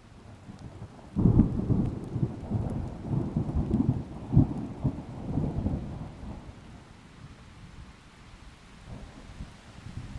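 Thunder over steady rain: a sudden loud clap about a second in, then a rolling rumble in uneven pulses that fades over several seconds, with another rumble building near the end.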